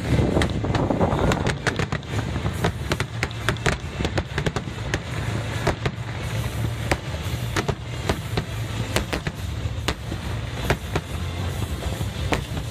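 Fireworks display going off in rapid succession: a dense run of sharp bangs and crackling reports, several a second, over a steady low rumble.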